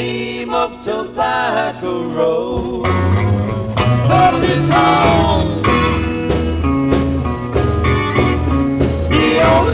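Live 1960s psychedelic rock band playing electric guitar, bass and drums, with gliding melodic lines over the top. The bass line and drums come in fully about three seconds in.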